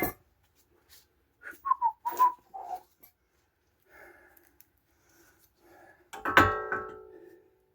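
Metal parts knocking and handled, with a few short gliding whistle-like notes about two seconds in, then a sharp metallic clang near the end that rings on for about a second.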